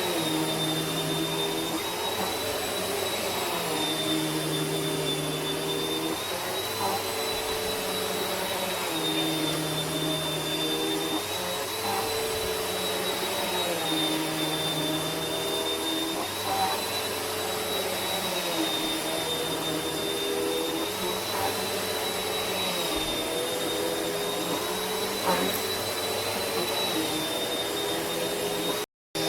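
A vacuum cleaner running steadily, its motor whine dipping and rising a little in pitch every few seconds. It cuts out briefly near the end.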